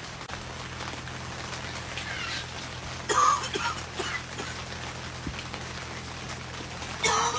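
Rain falling steadily, broken twice by a short, sharp sound: about three seconds in and again near the end.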